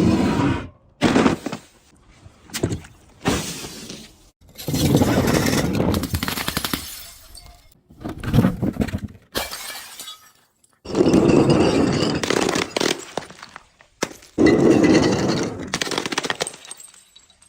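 Glass bottles and other brittle objects being crushed, crunching and shattering in a run of separate bursts of one to three seconds each, with abrupt silent gaps between them.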